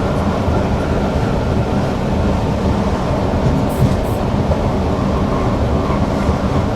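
Newag Impuls EN63 electric multiple unit running at speed, heard from the driver's cab: a steady rumble of wheels on rail and running gear, with two brief high ticks around the middle.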